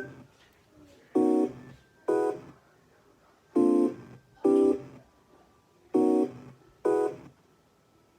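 Short pitched synth stabs played on a Maschine+ groovebox. They come in pairs, two hits just under a second apart, with a new pair every couple of seconds, three pairs in all. Each hit fades quickly.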